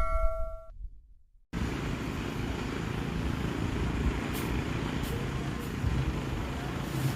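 A ringing bell-like chime cuts off abruptly within the first second, followed by a moment of silence. Then steady street traffic noise starts, with motor vehicles running and a low engine hum rising slightly near the end.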